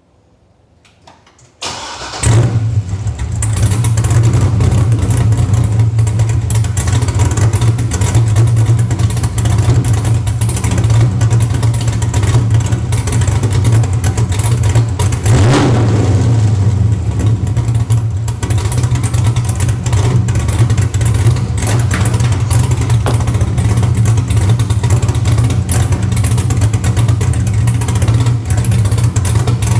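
2005 Corvette C6's 6.0 L LS2 V8, with a BTR Stage 4 camshaft, Corsa long-tube headers and a Borla exhaust with the axle-back removed, cranking briefly about two seconds in and catching on its first start after the cam install, untuned. It then runs loud at idle, with a short rise in pitch about halfway through.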